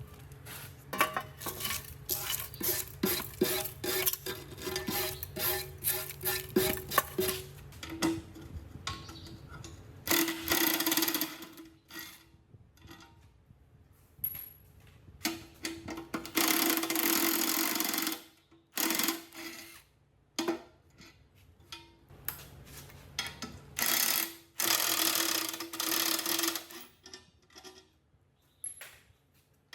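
Workshop work on metal parts. For the first several seconds there is a quick run of clicks and knocks over a low hum, then a motor-driven hand tool runs in three bursts of a couple of seconds each, with a few knocks between them.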